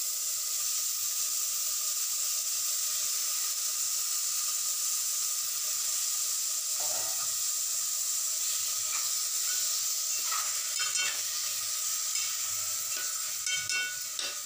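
Shark fish pieces sizzling steadily as they fry in hot oil and ginger-garlic paste in a metal pot. From about nine seconds in, a spoon scrapes and clinks against the pot as the fish is stirred.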